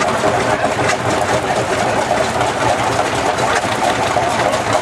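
Hot-bulb tractor engines running steadily with a dense mechanical clatter.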